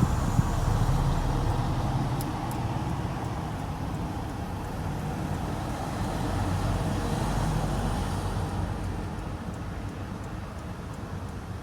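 Late 30-series Toyota Alphard engine running under light throttle. The sound eases off, swells briefly about two-thirds of the way through, then settles lower near the end.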